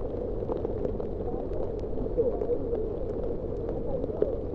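Indistinct chatter of several people talking at once, over a steady low rumble.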